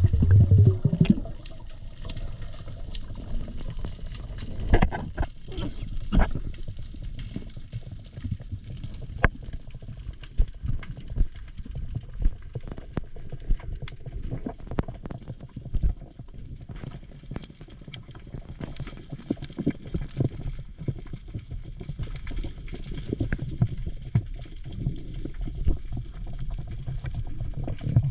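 Water moving and bubbling around the camera, with many scattered clicks and knocks.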